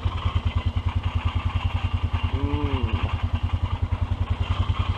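Polaris Sportsman 500 H.O. ATV's single-cylinder four-stroke engine idling with a steady, even pulse of about a dozen beats a second, after warming up from a cold start.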